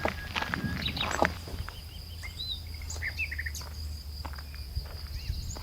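Footsteps for about the first second, then small birds chirping in short, quick calls, over a steady thin high-pitched tone and low rumble of outdoor background noise.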